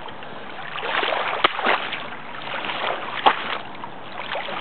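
Shallow swamp water splashing and sloshing around mountain bike wheels as they wade through it, in uneven swells, with two sharp clicks, one about a second and a half in and one past three seconds.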